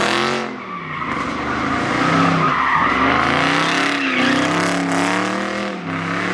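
A car engine revving up and down repeatedly while its tyres squeal and skid on the pavement as the car slides.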